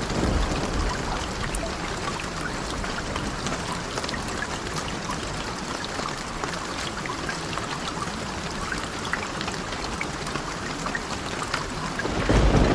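Steady rain with scattered sharp ticks of drops. Near the end a low rumble of thunder swells in.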